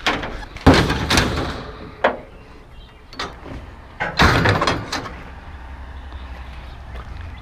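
Two loud bangs of vehicle doors slamming, about three and a half seconds apart, with a lighter knock between them. Then a low steady engine hum of a vehicle running.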